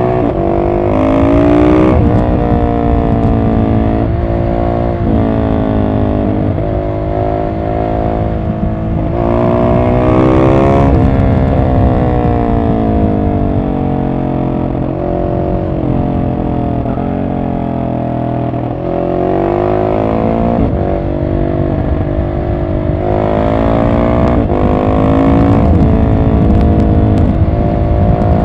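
Husqvarna 701 SM's single-cylinder engine through a decatted Arrow exhaust, accelerating and backing off several times: the pitch climbs, steps as gears change, and drops away on closed throttle.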